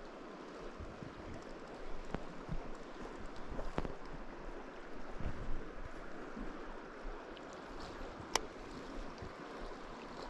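River water flowing steadily, with a couple of sharp clicks about four and eight seconds in.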